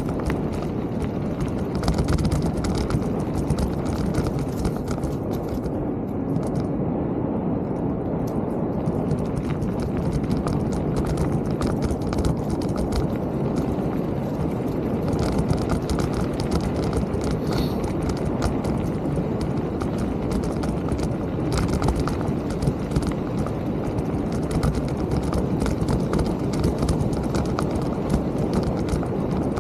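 Mountain bike rolling over a rough trail: a continuous rumble of the tyres with a dense clatter and rattle of small knocks from the bike.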